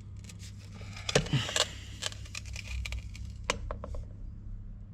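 Handling noises from a motorcycle exhaust muffler being set on kitchen scales: scattered light knocks, clicks and scraping, with a steady low hum underneath.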